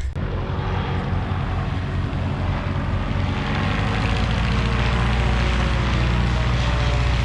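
Light single-engine propeller airplane running steadily, its engine and propeller sound growing gradually louder.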